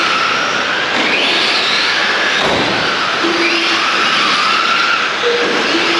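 Electric motors of racing radio-controlled trucks whining, rising in pitch again and again as the trucks accelerate out of the corners, about every two and a half seconds, over a steady hiss.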